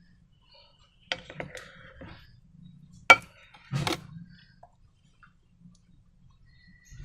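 Handling noises from slime-and-balloon crafting: a cluster of small clicks and crackles, then one sharp, loud click about three seconds in, followed by a short noisy rustle.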